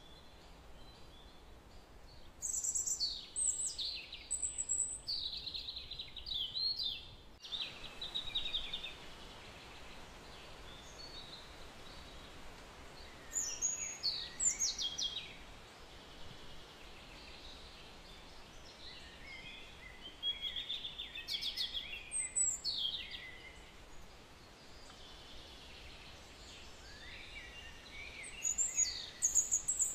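Birds singing in four bursts of high chirps and trills a few seconds apart, over a steady low hiss.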